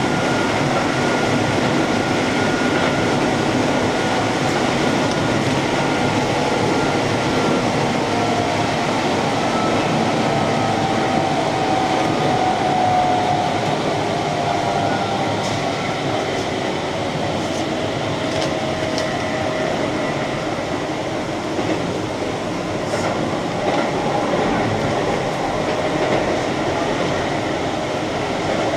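Keihan electric commuter train running along the line, heard from inside the car: steady rumble of wheels on rail, with faint whining tones that slowly fall in pitch and a few clicks from the wheels over rail joints past the middle.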